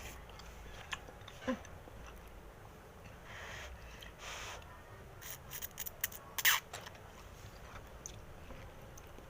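Someone eating bakso meatball soup: chewing and mouth sounds with a few sharp clicks, and a quick run of clicks a little past the middle, the loudest of them near the end of that run.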